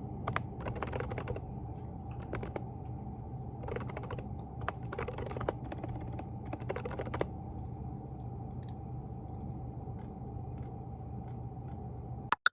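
Typing on a Groovestone GV10 mechanical keyboard with hand-lubed silent coral switches: bursts of soft key clicks with short pauses, thinning out in the second half, over a steady low room hum. One sharp click comes just before the sound cuts off at the end.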